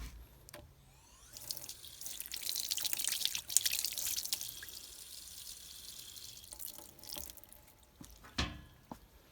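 Water running and splashing, starting about a second in and stopping after about six seconds. A single knock follows near the end.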